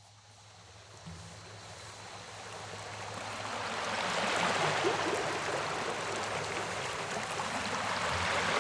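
Running water like a stream, fading in slowly from near silence and then holding steady.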